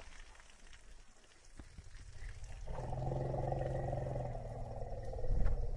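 African elephant giving one long, low call of about three seconds, starting about halfway through and steady in pitch. A loud low burst comes just before the end.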